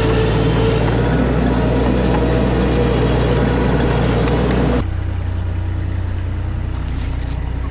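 Diesel engine of compact earthmoving equipment running steadily under work. About five seconds in the sound abruptly becomes quieter and deeper.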